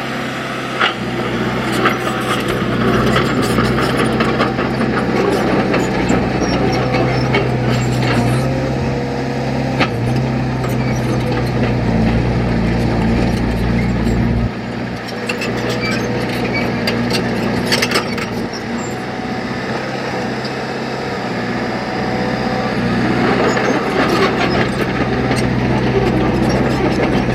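Heavy earthmoving machine's diesel engine running steadily under work, its note shifting about halfway through, with scattered clanks and knocks.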